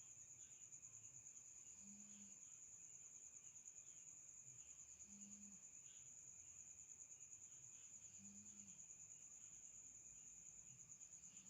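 Faint, steady high-pitched cricket trill, pulsing rapidly without a break, with a soft low note recurring about every three seconds.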